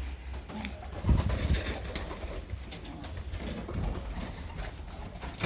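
Racing pigeons cooing in a small loft: low, repeated coos with a few faint clicks and scuffles.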